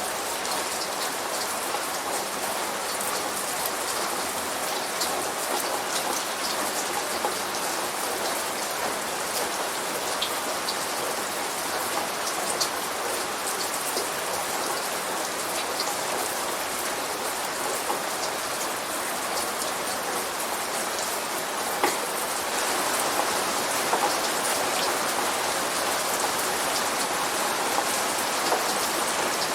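Steady light rain falling, a continuous hiss dotted with small drop ticks; one sharp drop click about 22 seconds in, after which the rain grows slightly louder.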